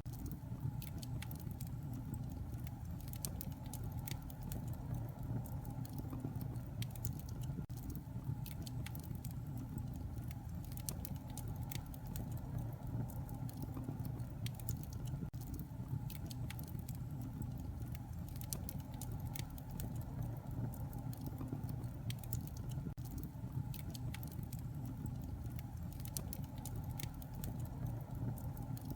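Bonfire crackling: many small, irregular pops and snaps over a steady low rumble.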